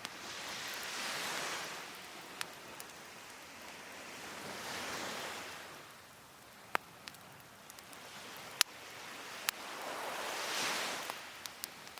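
Waves washing onto the shore in three slow swells, about four to five seconds apart, with sharp pops and crackles from a wood fire of cedar and oak firewood; the loudest pop comes a little past the middle.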